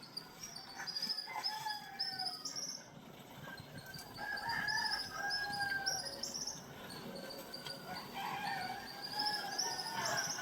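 Roosters crowing several times in the distance, each crow a long drawn-out call, over a steady background of small birds chirping.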